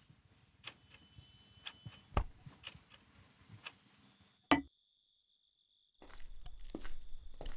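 Scattered light clicks and knocks, with a heavier thump about two seconds in and a sharp knock about four and a half seconds in. A brief dead silence follows, then a steady high-pitched tone with a low hum.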